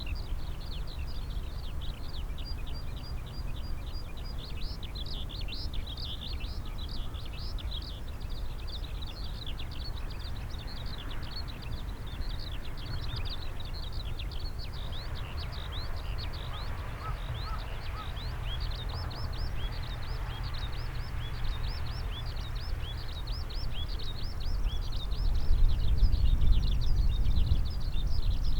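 A crowd of small birds chirping continuously in quick, overlapping high notes, over a steady low rumble that grows louder near the end.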